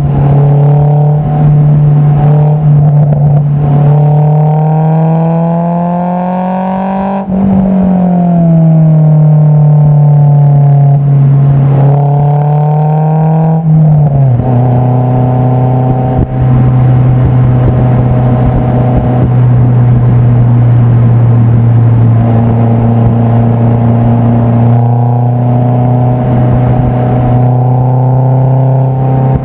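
Honda S2000 (AP2) 2.2-litre four-cylinder engine heard at the tailpipe through an Invidia Q300 exhaust, under way. The revs climb for about seven seconds, fall away, drop again about halfway through, then hold steady at a cruise.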